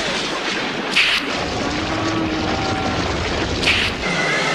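A steady rushing noise with a deep rumble under it, broken by two sharp cracks, one about a second in and one near the end.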